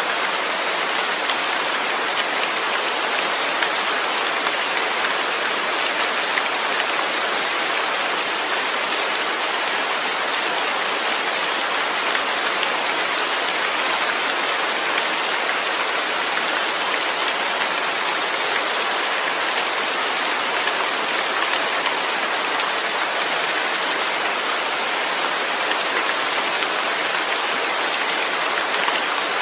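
Steady rain falling on a surface, a constant even hiss with no breaks.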